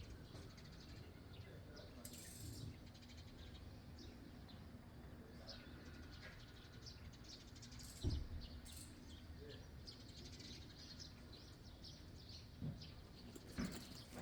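Faint birds chirping in short scattered calls, with a single dull thump about eight seconds in and a couple of lighter knocks near the end.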